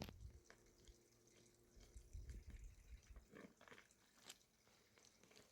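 Near silence, with a few faint scattered clicks and soft knocks.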